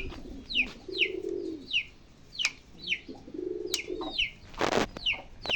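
Domestic pigeons cooing, two low rolling coos, over a steady run of short, high, falling chirps from other birds about twice a second. There is a brief noisy burst near the end.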